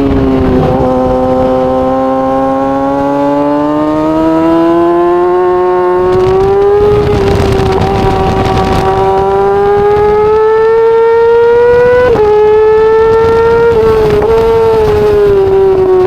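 Yamaha R6 inline-four sportbike engine running hard at high revs, its pitch climbing slowly under acceleration. It drops sharply about twelve seconds in, like an upshift, and dips briefly again just after fourteen seconds before settling lower near the end.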